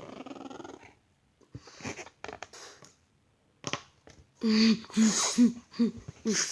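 A rubber balloon being squeezed and worked with the hands, giving rubbery squeaks and a stuttering, rasping squeal, without popping.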